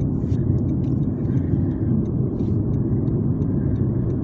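A car driving: a steady low rumble of engine and road noise, with faint light clicks.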